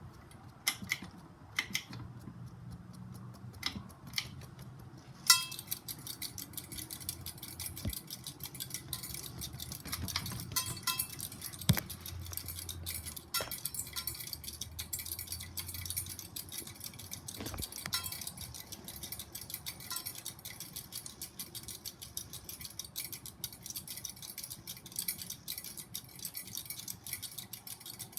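SMC Emperor ceiling fan running at medium speed with a faint steady whoosh, a few sharp clicks in the first half and a constant run of light ticking and rattling.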